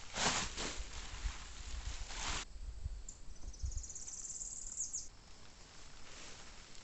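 A rustling noise with low thumps for the first two and a half seconds, then an insect's high, rapidly pulsing trill for about two seconds.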